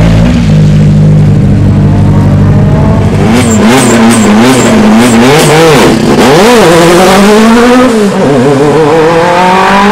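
Rally car engine held steady for the first few seconds, then revved hard with the pitch swinging rapidly up and down, a quick run of sharp cracks among the revs, and a steady rise in pitch as it accelerates near the end.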